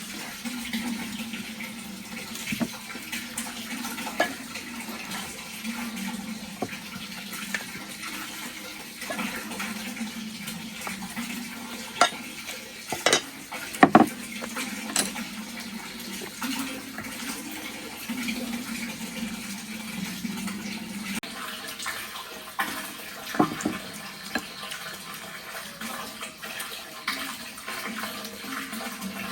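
Water running and splashing, with scattered clinks and knocks of dishes, loudest a few times around the middle.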